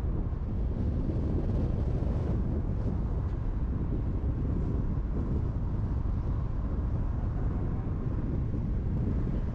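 Steady driving noise of a car at highway speed: a low rumble of tyres on the road with wind noise, even and unbroken.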